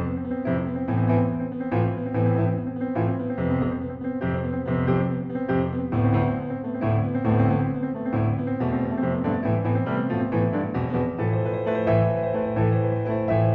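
Solo acoustic piano playing a slow recital piece: chords and a melody over low bass notes that recur every second or so.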